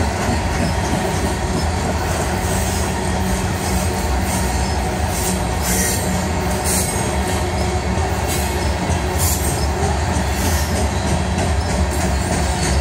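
Covered hopper cars of a long freight train rolling past: a steady rumble of steel wheels on the rail with scattered clanks.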